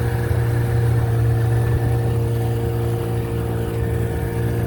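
Boat engine running steadily: a constant low drone with a steady hum above it.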